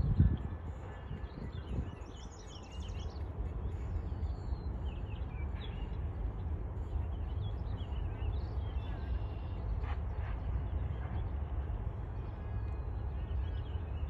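Small birds chirping now and then over a steady low rumble of outdoor background noise, with a single thump at the very start.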